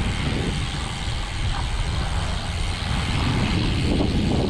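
Wind rushing over the microphone of a camera on a moving bicycle, a steady low rumble.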